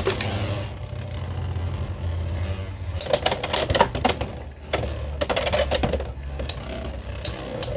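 Two Beyblade X spinning tops, Hells Scythe and Knight Shield, spinning in a plastic stadium. There is a steady whir at first, then from about three seconds in a run of rapid clicks and clacks as the tops strike each other and the stadium.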